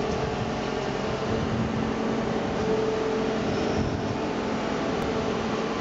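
Steady hum and rumble of a Saitama Railway 2000 series electric commuter train approaching the station, with a low steady drone and no sudden sounds.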